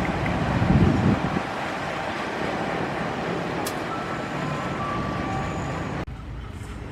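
Heavy vehicle noise: a low rumble with a rushing hiss, loudest for the first second and a half, then steady, dropping off abruptly about six seconds in.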